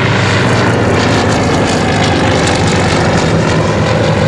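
Comper Swift's Pobjoy seven-cylinder geared radial engine and propeller running loud and steady as the light racer flies its display close by.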